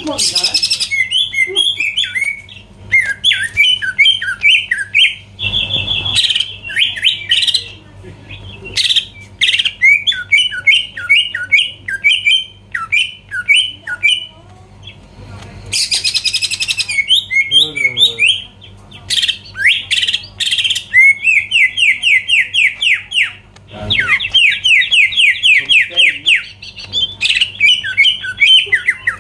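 Cucak ijo (greater green leafbird) singing hard: long, rapid runs of quickly repeated sweeping notes, broken now and then by harsh, rasping calls, one about half a second in and another around the middle, with a few short pauses.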